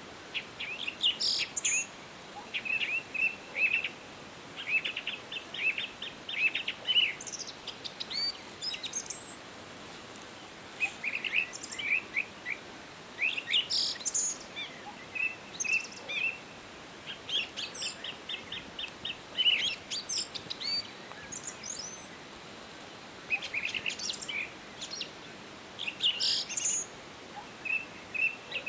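Wild songbirds singing: bursts of quick chirps and short trills, with brief pauses between songs, over a faint steady hiss.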